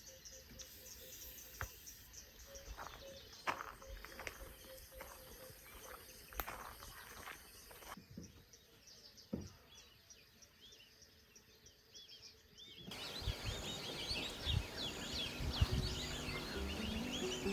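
Birds calling in bush or forest. In the first half a steady run of short repeated low notes sits among scattered calls. After two abrupt cuts, many birds chirp busily over one another, louder near the end.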